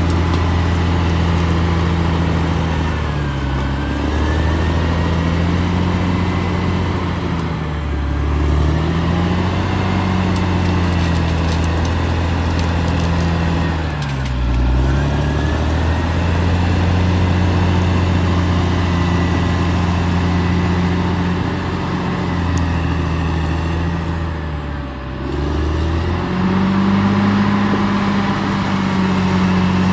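Caterpillar D6R XL bulldozer's diesel engine running steadily, its pitch dipping and coming back up four times.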